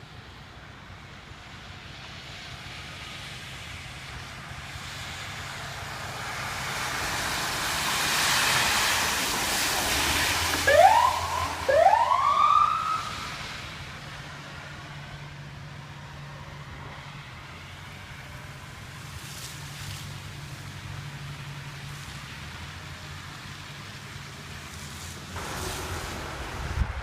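Emergency vehicle passing: rushing vehicle noise builds, then its siren gives two short rising whoops about eleven and twelve seconds in, followed by a steady low engine hum.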